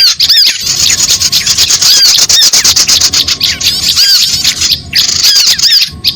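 Bird-lure recording of many birds calling at once: a loud, dense, rapid chatter over repeated high, arching squeaky calls, broken by a brief sudden gap just before the end.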